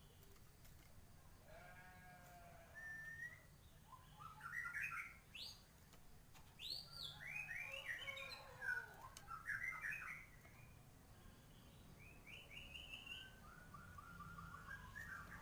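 White-rumped shama singing: a run of varied whistled phrases with quick rising and falling glides, loudest in the middle, then a quieter series of rapid repeated notes near the end.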